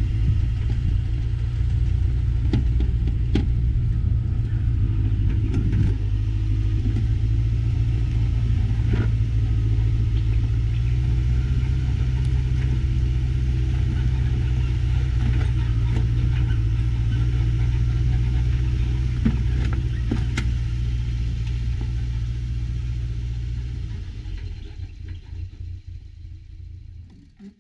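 Motor vehicle engine running with a steady low drone and occasional rattles, dying away over the last few seconds.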